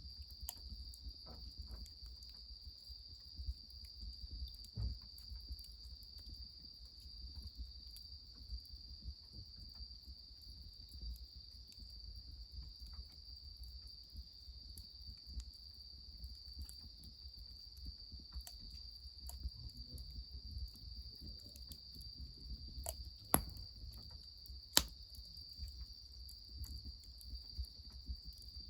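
Crickets chirring in one steady, high-pitched drone, with faint scattered clicks and crackles and two sharper clicks a little past two-thirds of the way through.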